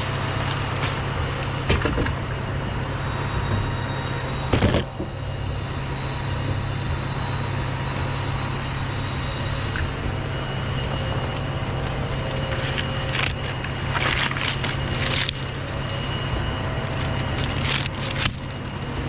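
A steady engine drone runs under sharp cracks and snaps of wood as palm fronds are cut and break away: a few single cracks, the loudest about five seconds in, and a cluster of them a little past the middle.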